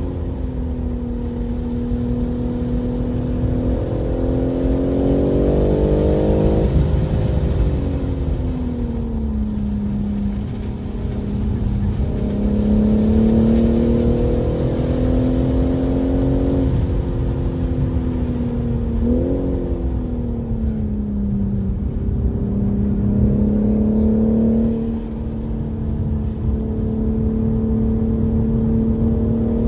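BMW M3 Competition's twin-turbo inline-six running hard on a racetrack, over steady road and tyre rumble. Its pitch climbs and drops abruptly about six and a half seconds in and again near the end, sags and rises in between, and jumps briefly about nineteen seconds in.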